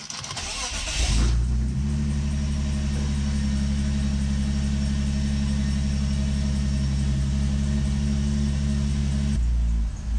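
The boosted M54 straight-six of a 2001 BMW E46 330ci is cranked over for about a second, catches, and settles into a steady idle. It is running on a newly fitted upgraded mass air flow sensor and a fresh tune. Near the end the engine sound changes abruptly.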